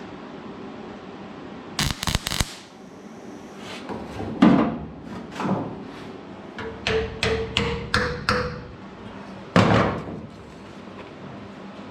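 Welder tacking small steel patches onto rusted truck fenders: about a dozen short bursts of welding with brief gaps between them, three quick ones first, then a run of tacks and one last burst near the end.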